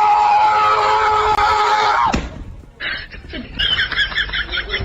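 A loud scream held on one steady pitch for about two seconds, then cut off. After a short pause comes a quick run of short, wavering cries.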